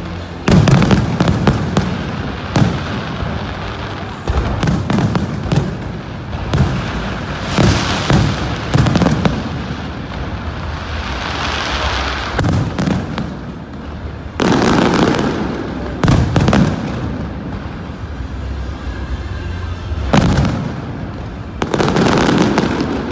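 Aerial fireworks display: shells bursting one after another in loud booms and sharp bangs, with the heaviest clusters about half a second in, about two-thirds of the way through, and near the end.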